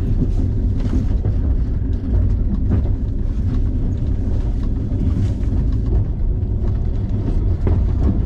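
Soviet-era sleeper train running, a steady low rumble with a few faint knocks.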